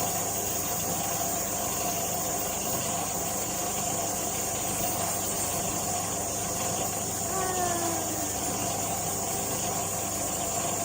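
Restored air compressor engine running steadily, a constant mechanical hum. A short falling tone sounds about seven seconds in.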